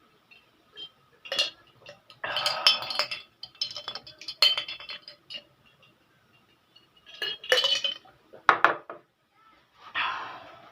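Cutlery clinking and scraping against plates and dishes in several irregular clattering bursts, with one sharp click near the middle.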